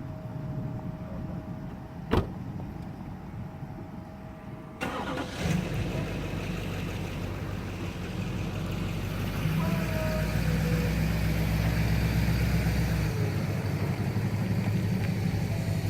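Truck engine starting a little under five seconds in and then running steadily, getting louder about ten seconds in as it is driven. There is one sharp click a couple of seconds before it starts.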